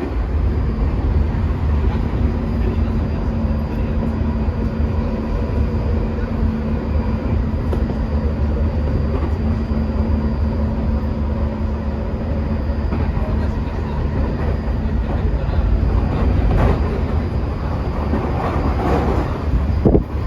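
A Tokyu 2020 series electric train running, heard from inside the car: a steady rumble of wheels on rail under the even hum of the traction motors and inverter, the hum that earns it the nickname 'microwave oven'. A faint high steady whine sits above, and a short knock comes near the end.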